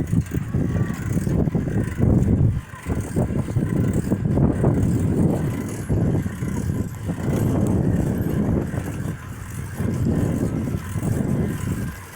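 Wind buffeting the microphone during a bicycle ride: a loud low rumble that surges and drops every second or two.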